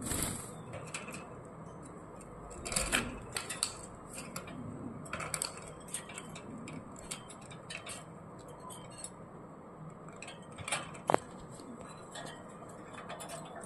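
Irregular light clicks and clattering taps, with one short pitched squeak about eleven seconds in.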